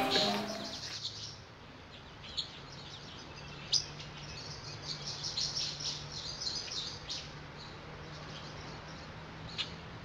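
Small birds chirping and tweeting in short, scattered calls as morning ambience, over a faint steady hum. Guitar music fades out in the first second.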